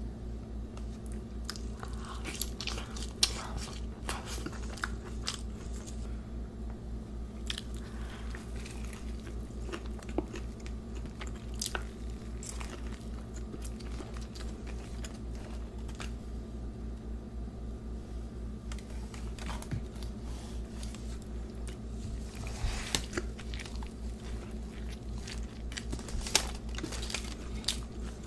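Close-miked eating: scattered crunchy bites and wet chewing, with clusters of crisp crackles near the start and again near the end, over a steady low hum.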